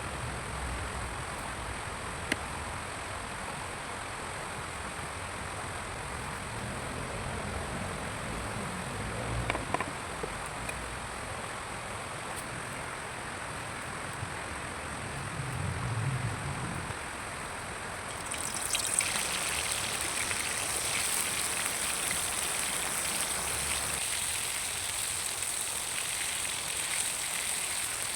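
Steady hiss of rain, with low rumbles about ten and sixteen seconds in. About eighteen seconds in a brighter, louder hiss sets in.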